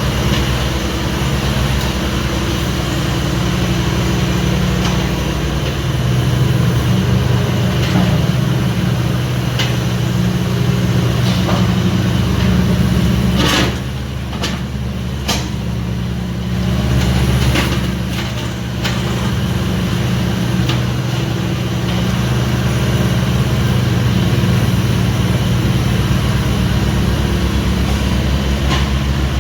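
Hitachi 26U compact excavator's diesel engine running, its note and loudness rising and falling as the machine works, with a few sharp knocks in the middle.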